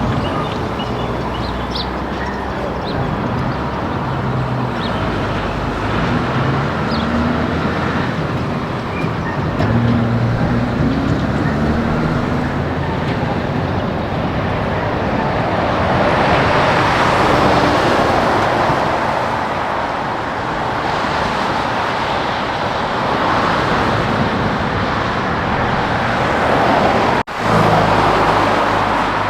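Heavy trucks and other traffic passing on a highway. Engine drone with some gliding changes of pitch comes first, then louder tyre and road noise as vehicles go by. The sound drops out for a moment near the end.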